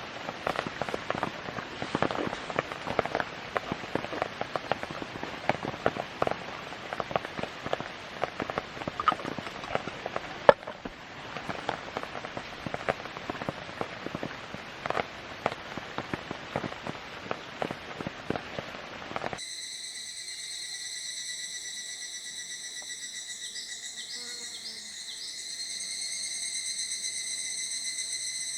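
Rain falling steadily, with many sharp drop ticks on a nearby surface. About nineteen seconds in it cuts abruptly to a steady chorus of summer insects singing in several even high tones.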